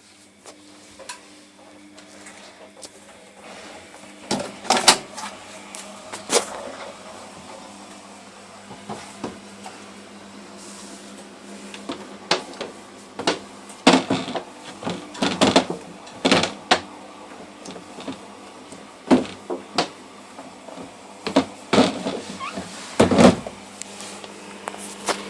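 Laundry machine running with a steady low hum, with irregular knocks and clunks over it.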